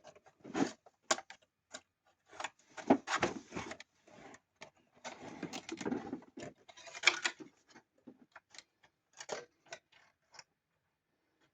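Parts of a child's busy board being worked by hand: irregular clicks, rattles and short sliding scrapes as pieces are pushed and turned, busiest for the first eight seconds, then a few scattered clicks.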